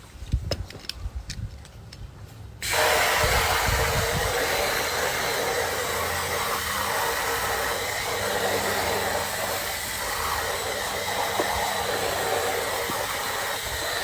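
A steady, loud hiss starts abruptly about three seconds in and holds evenly until it cuts off suddenly near the end.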